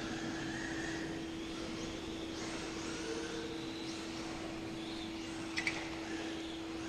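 Electric motor of an RC formula car whining as it accelerates and slows, the pitch rising and falling several times over a steady hum, with a sharp double click about five and a half seconds in.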